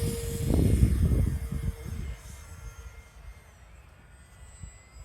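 RC model jet's electric ducted fan whining at a steady pitch in flight, fading away about three seconds in. Wind rumble on the microphone is loudest in the first two seconds.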